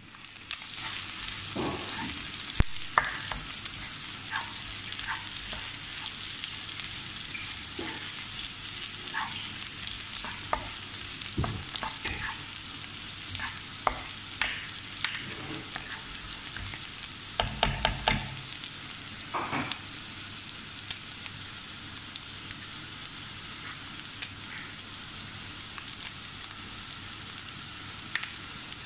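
Ground chicken with onion and garlic sizzling as it is stir-fried in oil in a non-stick wok, with a steady hiss. A plastic spatula scrapes and taps against the pan now and then, with a quick run of taps about two-thirds of the way through.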